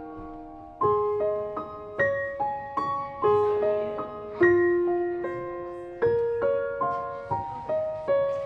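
Background music: a gentle piano melody, single notes struck one after another and left ringing.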